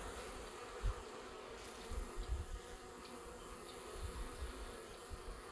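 Honeybees buzzing around their hive, a faint, steady hum of many bees, with a few soft low thumps.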